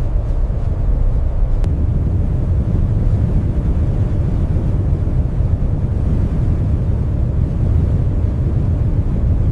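Blizzard wind blowing steadily, a deep, even rumble with no let-up.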